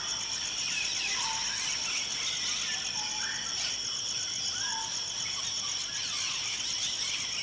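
Forest ambience: a steady, high, rapidly pulsing insect trill, with short bird chirps and calls scattered through it.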